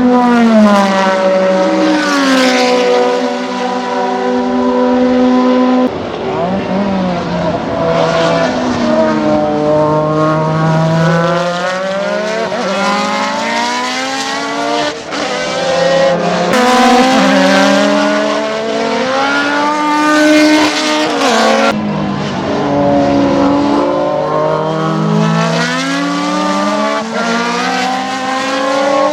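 Ferrari 156-85 Formula 1 car's twin-turbo V6 engine running hard, its pitch climbing and falling again and again through gear changes and throttle lifts, with sharp drops about 6, 15 and 22 seconds in.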